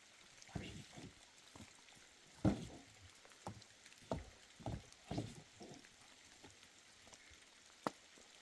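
About a dozen soft thuds and knocks at irregular intervals over faint background noise, the sharpest about two and a half seconds in and near the end.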